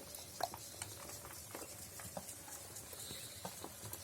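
Peafowl pecking at scattered feed: irregular sharp taps, a few each second.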